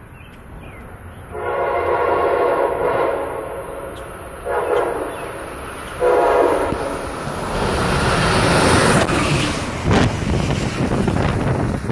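An Amtrak passenger train sounds its horn in three blasts as it approaches: a long one, a short one, then another that runs into the train's noise. It then rushes past close by, a loud mix of wheel and rail noise with clicks from the wheels.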